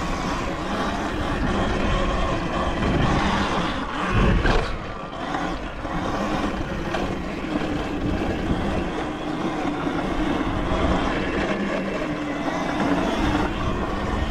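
Pit bike ridden along a dirt track: the motor runs steadily under wind and tyre noise, with a heavy low thump about four seconds in.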